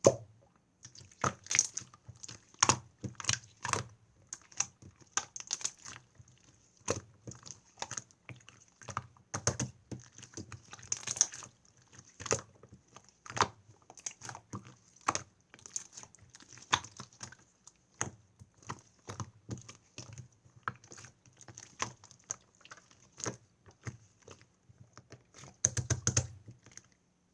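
Clear slime being squished and pressed by hand, making irregular sticky clicks and small pops, several a second with short pauses.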